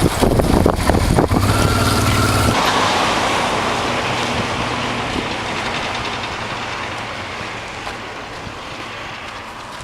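A vehicle engine running with a low hum, which stops abruptly about two and a half seconds in, leaving a rushing noise that fades away slowly.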